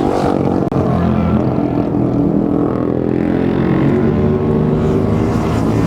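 Racing motorcycle engines running hard, their pitch rising and falling as the revs change.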